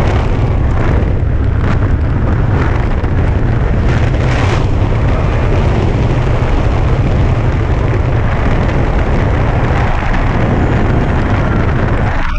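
Loud, steady wind rush buffeting the microphone as a tandem hang glider flies through the air, heaviest in the deep rumble.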